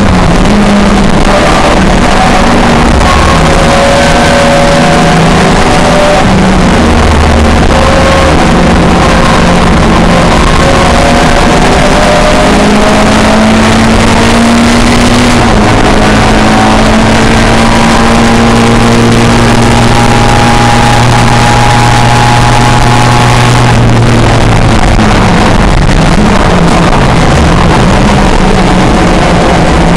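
Historic touring car engines at racing speed, revs rising and falling through gear changes, with pitch changes about 15 s in and again near 24 s. Loud and distorted, over a dense rush of noise.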